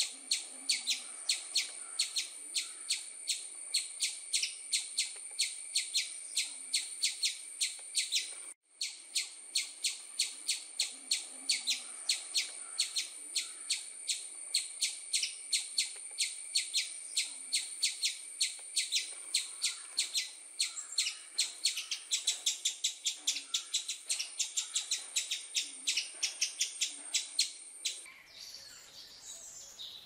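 Bird chirping: a fast, evenly repeated series of high chirps, about three a second, quickening a little after about twenty seconds and stopping near the end, when softer, different bird calls take over.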